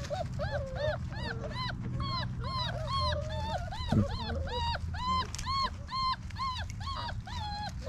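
38-day-old basset hound puppies whining in a rapid string of high, rising-and-falling cries, about three a second, with a lower puppy voice under them. One short cry drops steeply in pitch about four seconds in.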